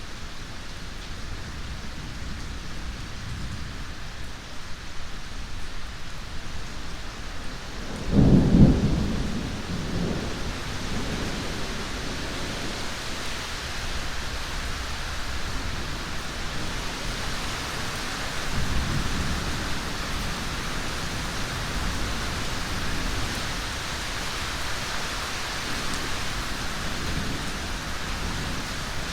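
Steady heavy rain with rolling thunder: a loud, sudden thunderclap about eight seconds in that rumbles off over a few seconds, and a fainter rumble of thunder later.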